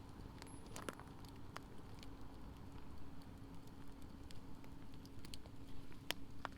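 Firewood burning in a campfire, crackling with scattered sharp pops, the loudest about six seconds in, over a low steady rumble.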